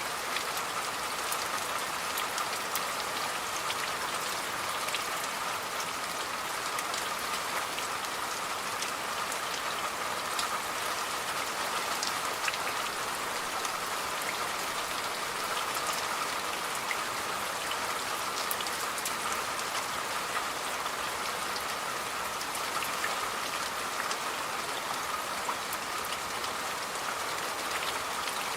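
Steady rain falling, with the sharp ticks of many separate drops hitting a surface and no change in strength.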